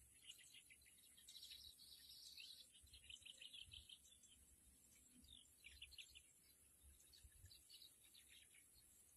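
Small birds chirping faintly, with high-pitched chirps in quick runs. The longest bout comes between about one and four seconds in, and shorter ones follow near six and eight seconds. A steady high hiss sits under them.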